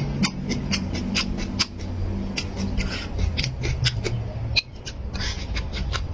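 Close-miked eating sounds: irregular wet smacks and crisp clicks of chewing, over a low steady hum.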